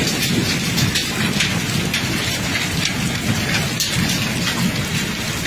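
Hail and heavy rain pelting hard surfaces: a dense, steady clatter with many sharper single hits, over a low rumble.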